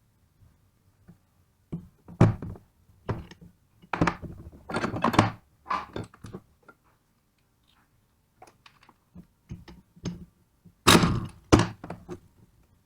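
Irregular knocks and clunks of hard parts and tools being handled during an alternator teardown, with a short cluster of clatter about four to five seconds in and a couple of louder knocks near the end.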